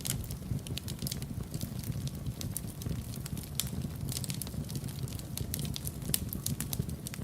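Wood fire crackling in a fireplace: irregular sharp crackles and pops, several a second, over a steady low rumble of the flames.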